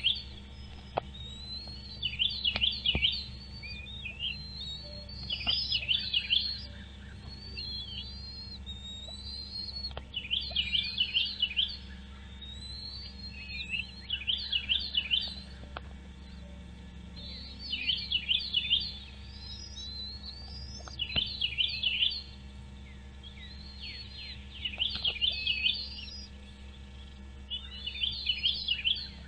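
A bird calling in repeated bursts of rapid, high chirps, each about a second long and coming roughly every three seconds, over a steady low hum.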